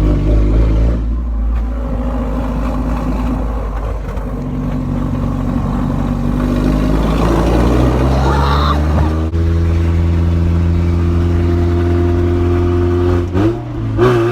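Mazda Miata's four-cylinder engine running through a loud exhaust as the car pulls away: the revs climb, break off sharply about nine seconds in as for a gear change, then hold steady before dipping briefly again near the end.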